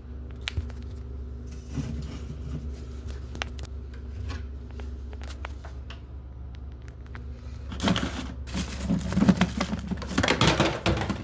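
A steady low hum with faint scattered clicks, then from about eight seconds in a few seconds of louder rustling and scraping noise.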